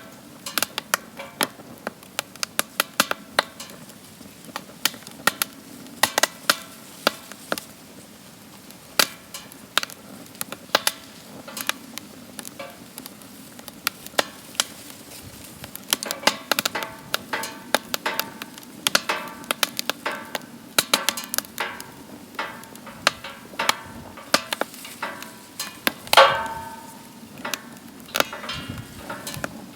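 Wood fire burning in a DOD Mecha Moe Fire fire pit, crackling and popping irregularly over a steady low rush, with one louder pop near the end.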